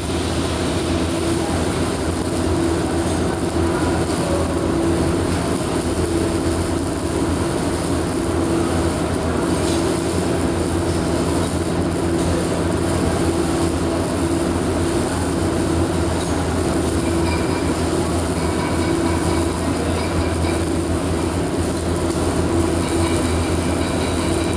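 Steady machinery noise with a low hum, running unbroken at an even level.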